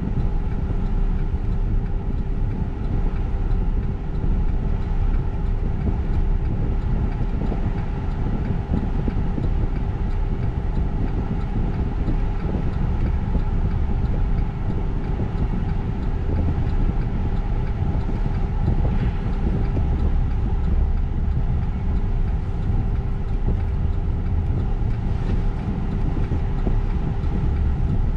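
Freight train rolling through a grade crossing, heard from inside a stopped car: a steady low rumble, with a thin steady hum over it.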